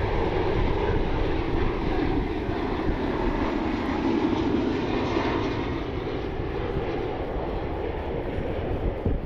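Jet airliner's engines, a steady rumble that eases off somewhat in the second half.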